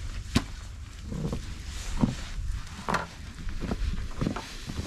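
A few scattered sharp clicks and knocks over a steady low rumble.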